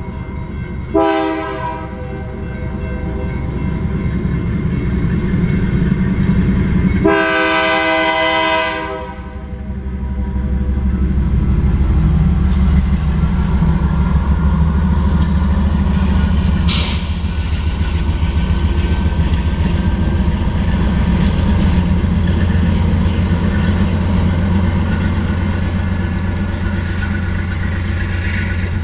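A GE Dash 9-44CW diesel locomotive's horn sounding a short blast about a second in and a longer blast at about seven seconds. Then the locomotive's engine and the train's wheels rumble steadily over the crossing as the short train passes.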